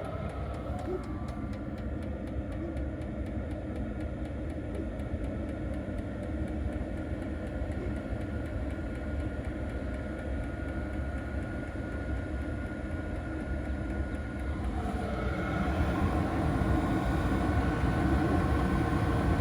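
A 5 kW Maxspeedingrods diesel air heater running, giving a steady fan hum with a faint high whine. The sound grows louder about 15 seconds in.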